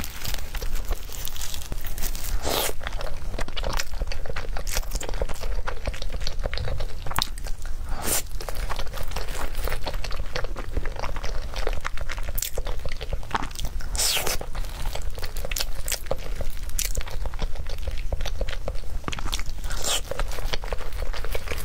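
Close-miked eating sounds: chewing and wet mouth clicks and smacks while eating halved soft-boiled egg, many short irregular clicks one after another.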